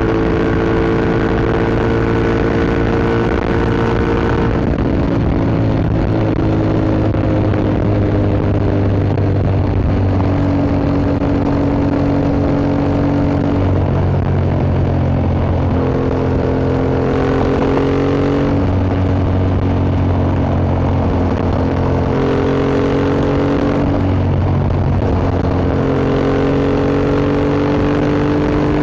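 Yamaha MT-07's 689 cc parallel-twin engine running through an Akrapovič Racing Line exhaust while riding, holding moderate revs. Its pitch climbs slowly and steps down several times, as at gear changes.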